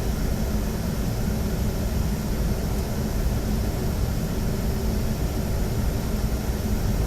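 Steady flight-deck noise of a Boeing 737 on final approach with gear down and flaps 30: a constant rush of airflow over a low hum.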